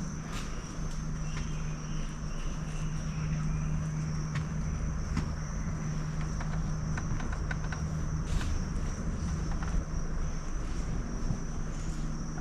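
A steady high-pitched insect trill from the rainforest, with a low steady hum beneath it and scattered short clicks.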